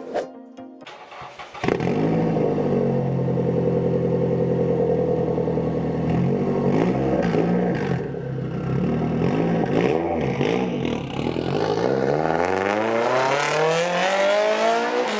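A Japanese performance car's engine comes in abruptly about two seconds in and runs steadily, with a few short rises and falls in pitch. It then revs steadily higher over the last three or four seconds before cutting off.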